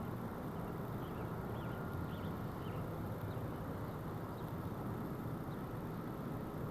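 Honeybees buzzing in a steady, dense hum around an open hive, with a few faint bird chirps about a second or two in.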